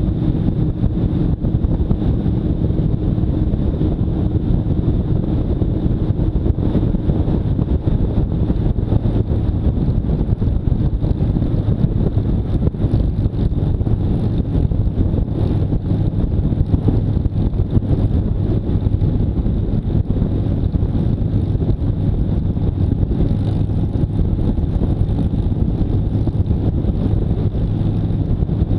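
Motorcycle engine running at a steady pace while riding, with wind noise on the microphone.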